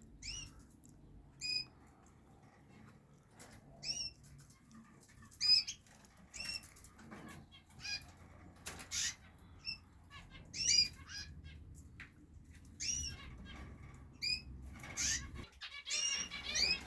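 Canaries in their cages giving short, sweeping chirp calls every second or two, more of them crowding together near the end, with brief fluttering of wings.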